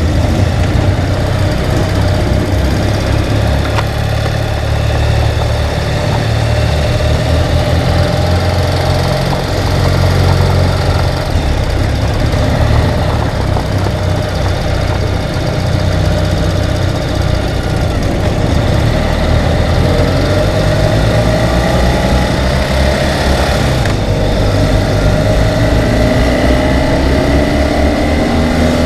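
Ural sidecar motorcycle's air-cooled boxer-twin engine running steadily, its pitch rising in the last few seconds.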